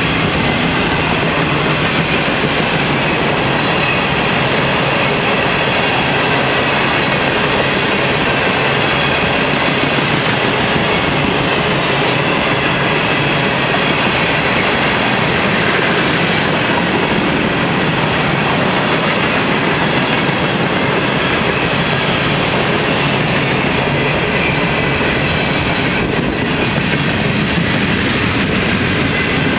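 A long freight train's cars (boxcars, tank cars and open hoppers) rolling past at close range, their steel wheels running on the rails with a loud, steady rolling noise.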